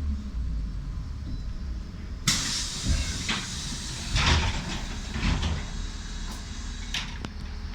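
Trolleybus pneumatic doors opening: a sudden hiss of compressed air about two seconds in, with a few knocks as the door leaves move, over the steady low hum of the vehicle.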